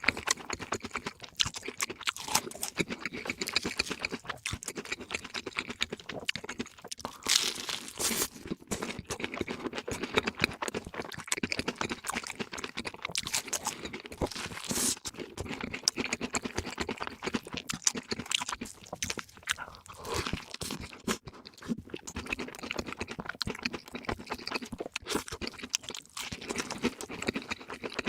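Close-miked eating of crispy fried food: continuous crunching and chewing with dense crackles, a few louder crisp crunches about 7 and 15 seconds in.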